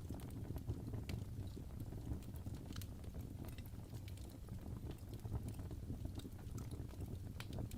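Wood fire burning in a fireplace: logs crackling with irregular sharp pops over a steady low rumble of flame.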